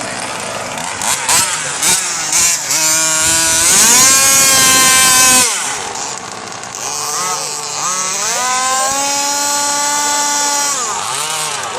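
Small two-stroke engine of a gas-powered 1/5-scale RC car revving up and holding a high, steady full-throttle note, which cuts off suddenly about halfway through. A second run rises again, holds, and falls away near the end, after a few sharp knocks near the start.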